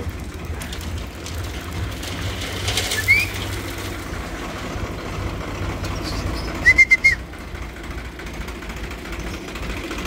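Bird chirps over the low, steady rumble of a farm tractor's engine running: one short rising chirp a few seconds in, then a quick string of four chirps, the loudest sounds.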